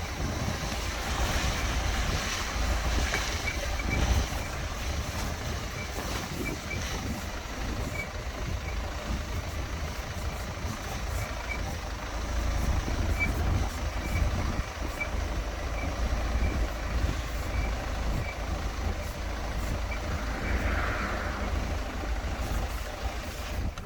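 Short, high squeaks repeating at uneven intervals from the front end of a Land Rover Freelander 2, over a steady low rumble of the moving car.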